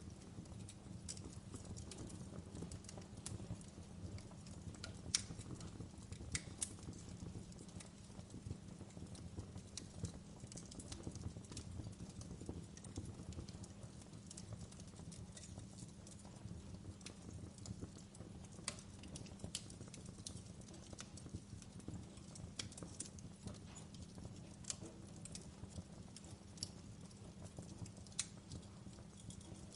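Wood fire burning in a fireplace: a steady low rumble with irregular sharp crackles and pops, one louder pop about five seconds in.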